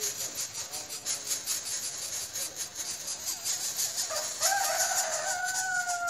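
One long, held bird call beginning about two-thirds of the way in, dipping slightly at its end, over a steady high hiss.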